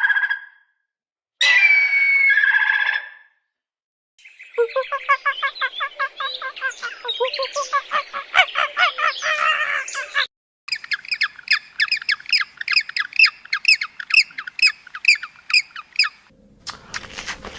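Birds calling in separate short takes: two brief pitched calls, then several seconds of fast chattering chirps, then a long run of evenly repeated sharp chirps that stops suddenly.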